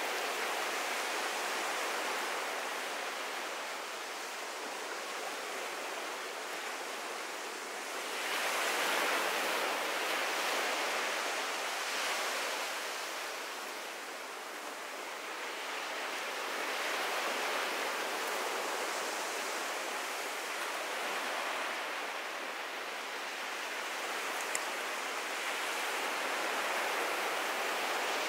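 Ocean waves washing onto a beach: a continuous surf hiss that swells and eases every few seconds, loudest about eight seconds in.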